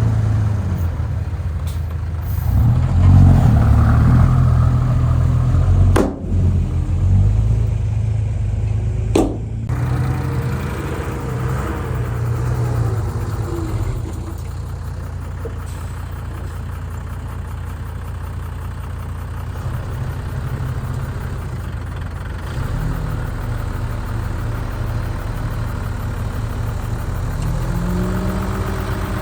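Diesel engine of heavy earthmoving machinery running steadily, louder in the first few seconds, with two sharp clicks about six and nine seconds in.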